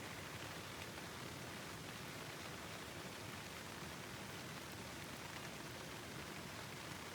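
Steady, even hiss of running water and rain, with faint scattered ticks.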